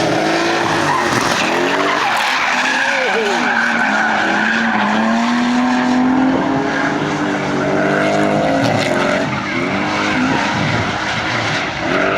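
Two drift cars, a straight-six and a V8, running hard with engine revs rising and falling while their tyres squeal and skid.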